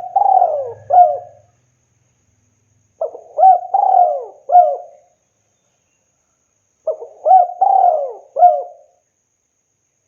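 Spotted dove cooing: three phrases, about three and a half seconds apart. Each phrase is a few notes, with a longer drawn-out coo in the middle.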